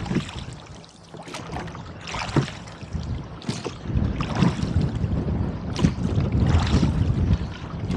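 Gusting wind buffeting the microphone, a low rumble that grows louder about halfway through, with the splashes of oars dipping into choppy water at a steady rowing stroke.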